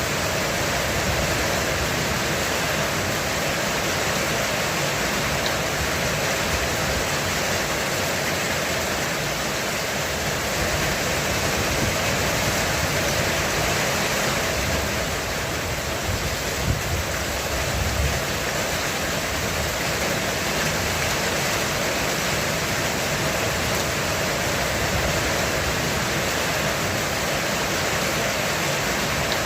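Heavy rain pouring steadily on a roof, a dense even hiss. Around the middle it is joined by a low rumble of thunder, with a couple of short sharper peaks.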